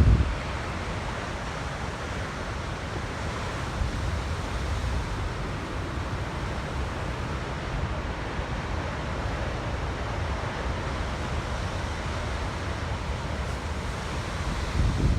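Ocean surf washing steadily onto the shore, with wind rumbling on the microphone and stronger gusts right at the start and at the end.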